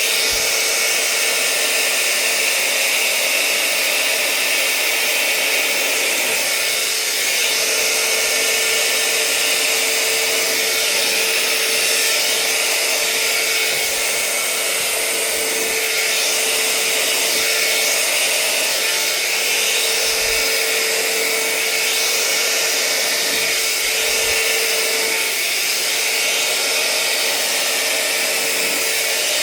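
Hair dryer running steadily, a constant hum over a rush of air, blowing wet acrylic paint across a canvas.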